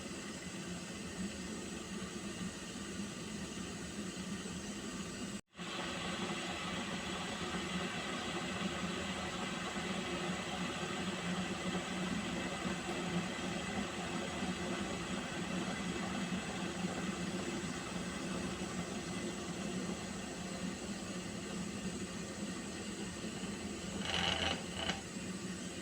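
Water heating in a pot, a steady hiss with a low hum. The sound drops out for an instant about five seconds in, and there is a short, louder crackle near the end.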